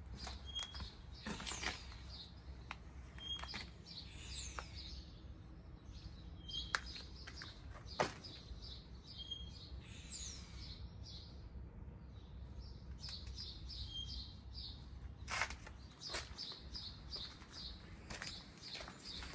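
Small birds chirping: repeated short, high chirps with a few gliding calls and quick runs of notes. A few sharp clicks or knocks sound among them over a faint low hum.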